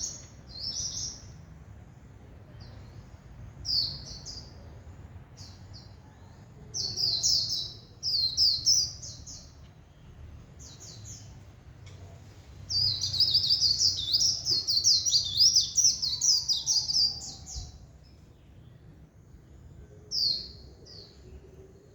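A caged white-eye (vành khuyên) singing in fast, high twittering phrases broken by short pauses, with one long unbroken run of song in the middle.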